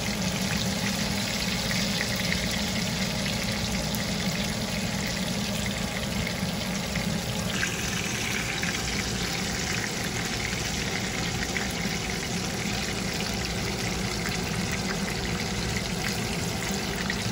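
Breaded chicken cutlets shallow-frying in hot oil in a skillet: a steady crackling sizzle.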